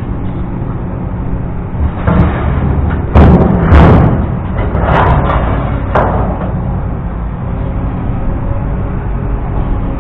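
An engine running steadily, with a few heavy knocks or bangs in the middle, the two loudest close together about three to four seconds in.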